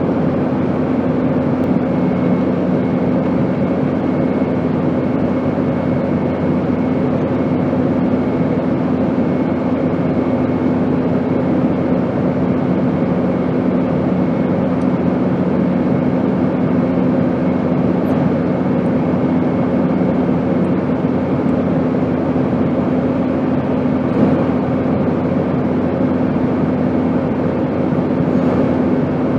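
Airplane in flight: a steady, even drone of rushing noise with a constant low hum underneath. One of the hum tones fades out about two-thirds of the way through.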